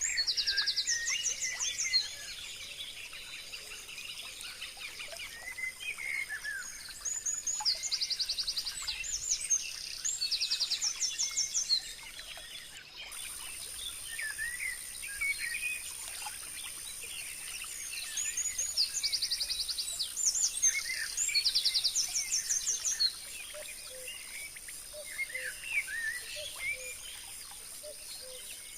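Wild birds singing, in repeated bouts of fast trilled notes and chirps about every ten seconds, with quieter scattered calls between. A steady high-pitched hum runs underneath.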